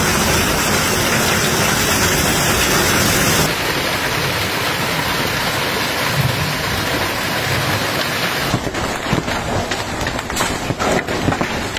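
Heavy storm rain pouring down as a dense, steady hiss, changing abruptly twice. In the last three seconds or so it breaks into many sharp separate strikes.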